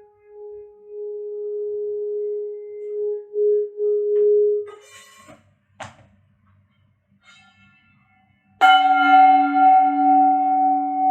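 Singing bowl held in a steady, gently pulsing tone, as when its rim is rubbed. The tone stops about halfway through, followed by a few light knocks and a short quiet gap. Then a lower-pitched bowl is struck and rings on with several overtones and a slow wobble.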